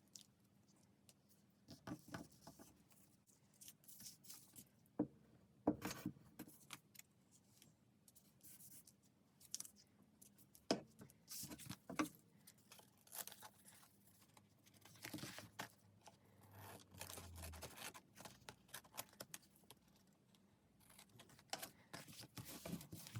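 Quiet, irregular rustles, taps and scrapes of paper and laminate sheet being handled and worked by hand during craft work.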